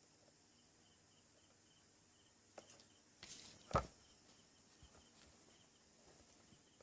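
Faint background with a soft, evenly repeating high chirp, a few light clicks, and one sharper knock a little before the middle.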